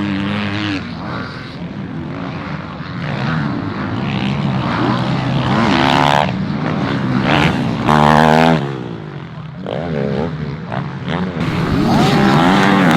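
Motocross bike engines revving up and down as they race, pitch rising sharply through gear changes and dropping off between.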